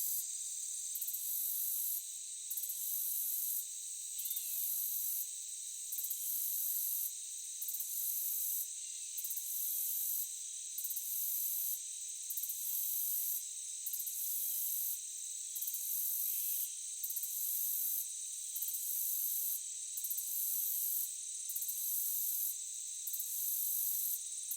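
Insect chorus, crickets or similar, in forest ambience. It is a steady high-pitched trilling drone, with a very high pulsing call that repeats about once a second.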